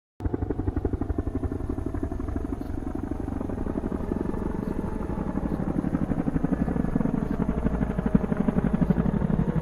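Engine of a BMW Z4 sports car running as it drives, a steady fast pulsing engine note that starts suddenly.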